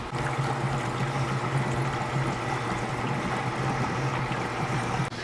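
New electric motorcycle fuel pump being bench-tested, running steadily with a low hum while it pumps fuel, then switched off abruptly near the end.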